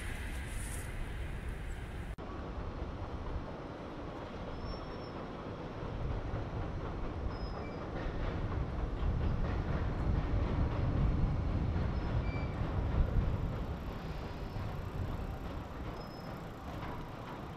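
Electric commuter train rolling across a steel truss railway bridge: a low rumble that builds to its loudest about two-thirds of the way through, then eases, with faint clatter of wheels over rail joints.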